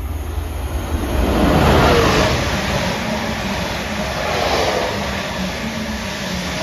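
Greater Anglia Stadler FLIRT passenger train passing through the station at speed: a rush of wheels on rail that builds to its loudest about two seconds in, dropping in pitch as the front goes by, then swells again as the long rake of carriages runs past.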